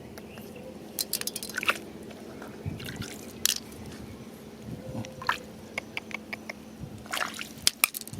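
Pebbles and wet gravel clicking and crunching, in irregular clusters of sharp clicks, as stones are handled and knocked together.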